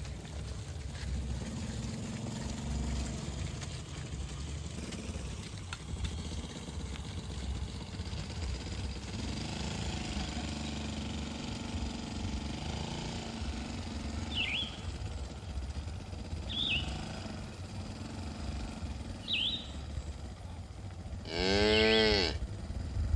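Cattle mooing: two faint moos midway, then one loud moo of about a second near the end. A few short bird chirps come in during the second half over a steady low rumble.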